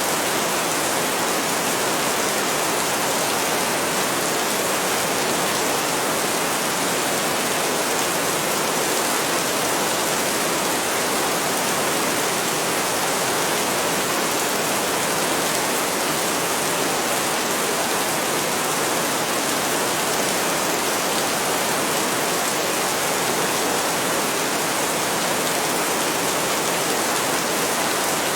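Heavy rain falling steadily, an even, unbroken hiss without thunder.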